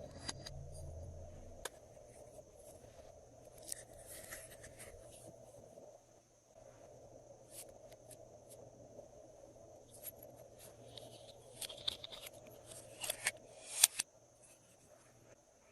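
Glossy slime being worked by hand, giving scattered small sticky clicks and crackles that become louder and more frequent near the end.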